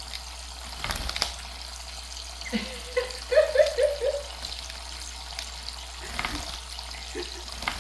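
Water running and splashing as pet birds bathe in a shallow bath, with a few brief splashes and a short run of four quick high notes about three seconds in.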